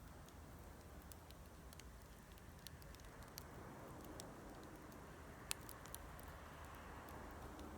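Plum-wood bonfire crackling faintly, with scattered small pops and one sharper pop a little past halfway.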